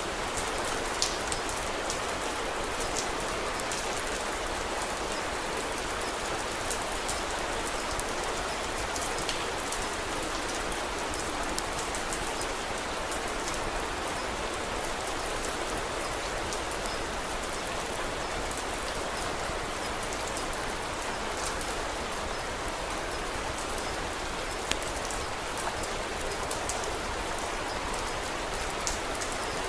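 Steady rain falling, an even hiss with scattered faint sharp clicks throughout.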